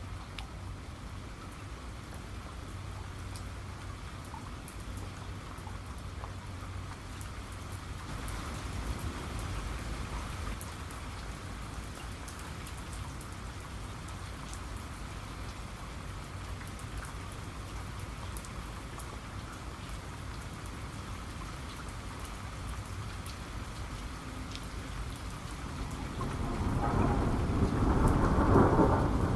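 Steady rain with scattered individual drops over a low background rumble. About 26 seconds in, a louder roll of thunder builds and peaks near the end.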